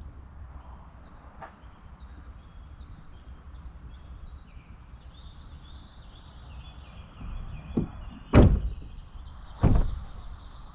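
A vehicle door being shut, with a few thuds near the end, the loudest two about a second apart. They follow a run of evenly spaced high beeps about half a second apart.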